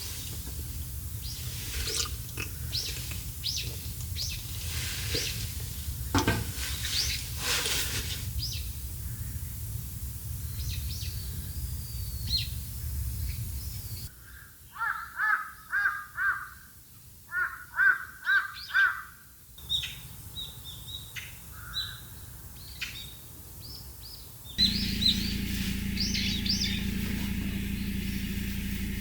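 Birds chirping and calling, with one bird giving repeated short call phrases in the middle. A low steady rumble sits underneath for the first half and again near the end, and the background changes abruptly a few times.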